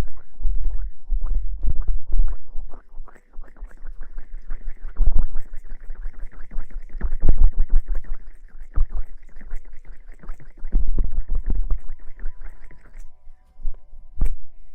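Close-miked ASMR rustling and scratching: dense, irregular crackles with heavy low thuds, easing off briefly about three seconds in and dying away near the end.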